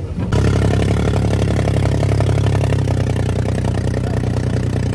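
Off-road vehicle engine running steadily, cutting in suddenly a fraction of a second in.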